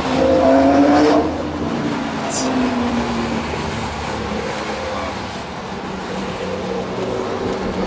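Lamborghini Gallardo's V10 with Quicksilver exhausts revving up hard for about the first second, then easing off to a steadier, quieter run.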